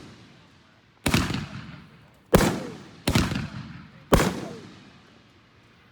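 Consumer fireworks going off: four loud bangs roughly a second apart, each trailing off in a rolling echo.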